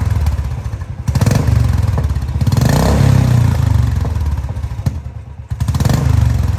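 Royal Enfield Classic 350's single-cylinder engine running through its exhaust with a deep, bass-heavy thump. The throttle is opened in swells, easing off about a second in and again around five seconds before rising once more.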